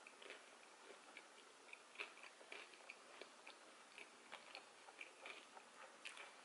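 Faint mouth sounds of a person chewing a mouthful of cheesy pizza with the lips closed: small irregular wet clicks, a few each second.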